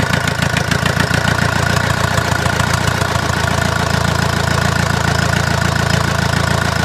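Four-cylinder diesel engine idling steadily, running fairly smoothly just after starting, now that the water that had hydrolocked its cylinders has been cleared. It settles to an even idle within the first second.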